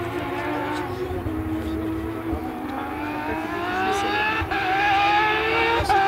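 Porsche 911 rally car's flat-six engine under power, its note holding steady at first, then climbing in pitch through the second half as the car accelerates, with a couple of short sharp cracks along the way.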